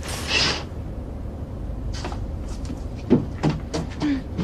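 Steady low hum of an airliner cabin, with a short rustle near the start and a few light knocks and clicks from about two seconds in, the sharpest just after three seconds.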